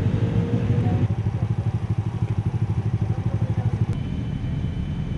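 Motorcycle engines idling close by, a steady low throb with an even pulse.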